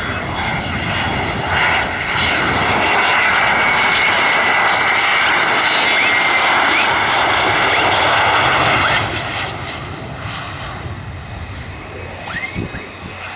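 F-16 fighter jet passing close on its landing approach: the turbofan's roar and high whine swell, stay loud for several seconds with the whine sliding slowly lower in pitch, then drop away sharply about nine seconds in to a quieter rumble.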